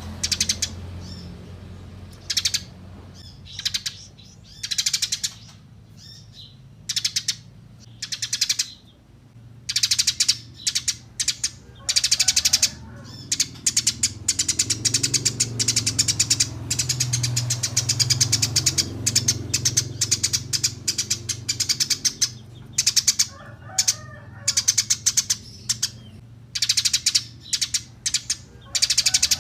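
Small songbirds singing: rapid high-pitched chirps and trills in short bursts, coming thick and fast, over a low steady hum.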